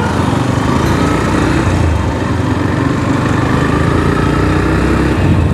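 Motorcycle engine running steadily with road noise.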